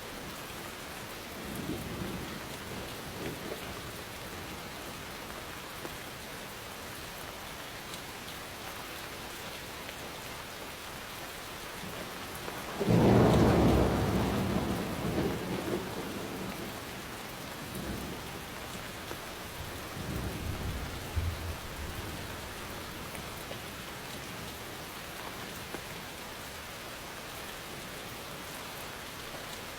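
Steady rain falling, with thunder rumbling: a faint roll about two seconds in, a sudden loud clap about thirteen seconds in that rolls away over several seconds, and a softer rumble a few seconds later.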